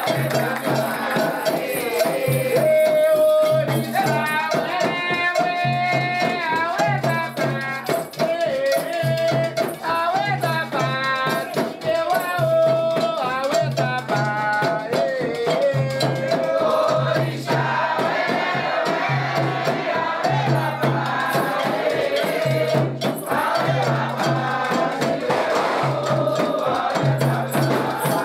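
Candomblé ceremonial music for Xangô: voices singing a chant over constantly shaken rattles, with a low beat repeating about once a second.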